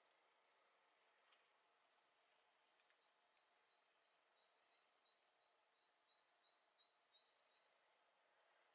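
Faint series of short, high, thin chirps: a quick run of about four notes, then a slower, even run of about nine slightly lower notes that fades away, from a small bird.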